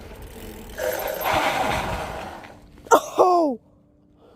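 A rush of noise lasting about a second and a half, then near the end a short, loud vocal cry that falls steeply in pitch, in two parts, from a boy riding a bike.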